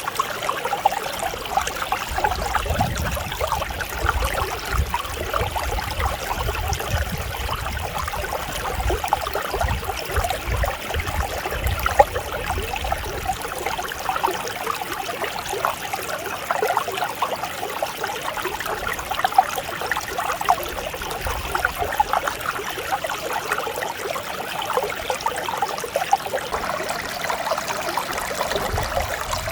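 Mountain stream flowing steadily, with a continuous bubbling rush of water. A low rumble sits underneath for roughly the first half and then fades out.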